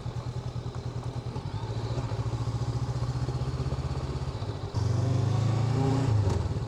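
Honda NX500's parallel-twin engine running under way at low speed with an even pulse, picking up a little about a second and a half in, then opening up sharply louder about three-quarters of the way through. A brief click comes just before the end.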